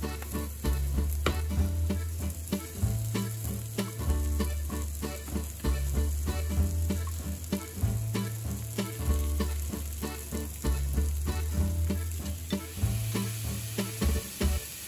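Sliced onions and mushrooms sizzling in a nonstick frying pan, with many small clicks and taps of the food being moved about. A low hum underneath comes and goes every second or two.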